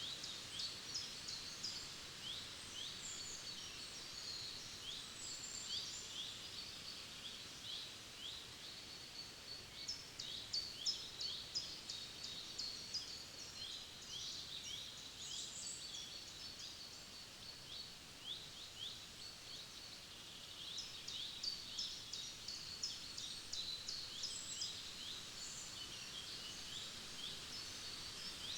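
Small songbirds singing: quick, high-pitched chirps and trills that come in three busy spells, over a faint steady background hiss.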